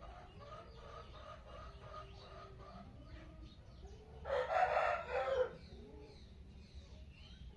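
A rooster crows once, loud, starting about four seconds in and lasting a little over a second, over a steady background of birds chirping.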